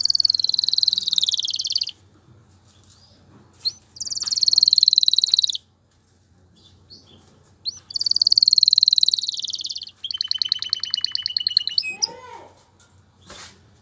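Domestic canary singing: four fast, high trilled phrases of about two seconds each, separated by short pauses. The last phrase changes to a buzzier rattle and ends in a lower swooping note.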